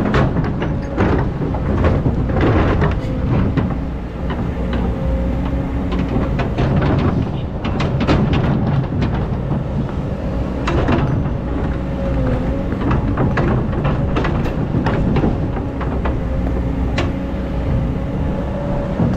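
Excavator digging sand: its diesel engine runs steadily with a thin steady whine, while the bucket gives many irregular clanks, knocks and scrapes.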